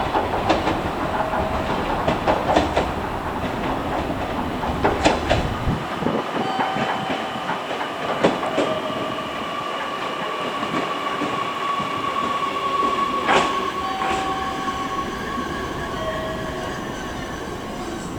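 A train running along the line, its wheels clicking over rail joints in the first half. A steady whine comes in and holds through the middle and later part.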